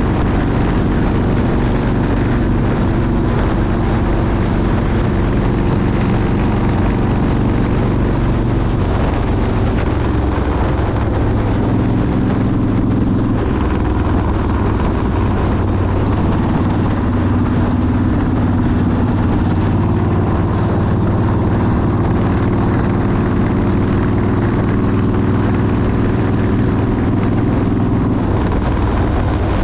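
Motorcycle engine running steadily at road speed, mixed with wind rush; its pitch shifts slightly a few times.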